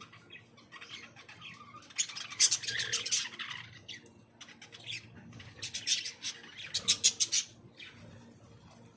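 Caged aviary birds calling in two bursts of rapid, harsh chattering: one about two seconds in, another around six to seven seconds, with fainter calls between.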